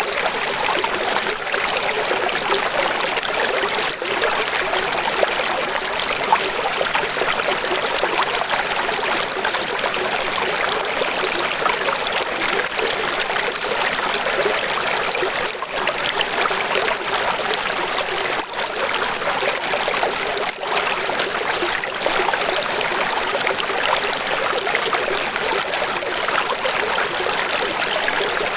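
Running water splashing steadily and without pause, bright and hissy with little low rumble.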